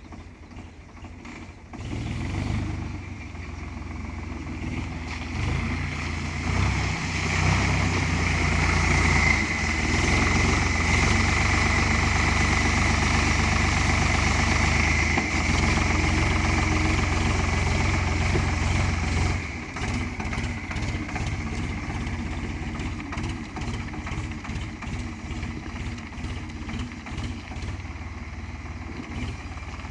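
Ford 3600 tractor's three-cylinder engine running. It comes up sharply about two seconds in and runs hard and loud, then drops back a little over halfway through to a lower, pulsing run.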